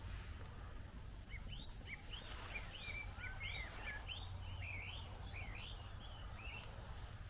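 A small bird singing a quick run of varied chirping, warbling notes, starting about a second in, over a steady low rumble.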